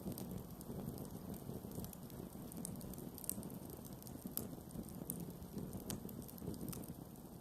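Wood campfire burning: a low, steady rumble of flame with scattered sharp crackles and pops, the sharpest a little over three seconds in and again about four seconds in.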